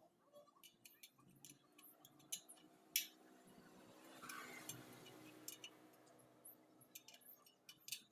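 Faint, scattered light metal clicks and clinks of wire spokes and tools being handled on an old motorcycle wheel, with one louder click about three seconds in.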